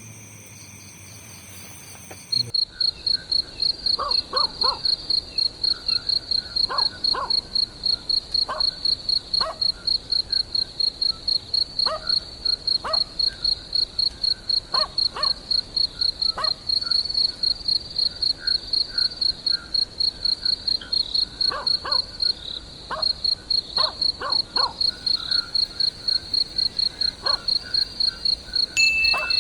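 Insect, cricket-like, chirping close to the microphone: a loud, high, evenly pulsed trill at several chirps a second that starts about two seconds in. Scattered short, lower calls sound underneath.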